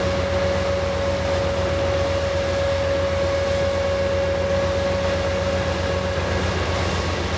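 Large diesel engine running steadily, with a fast low throb and a steady whine over it.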